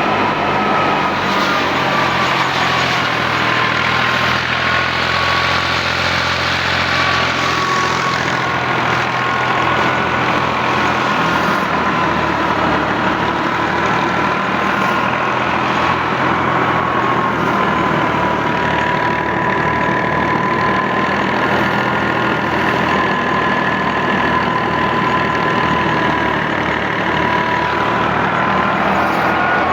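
Al-Ghazi tractor engine running steadily, driving a threshing machine, with a high whine that wavers slightly in pitch over the engine's constant hum.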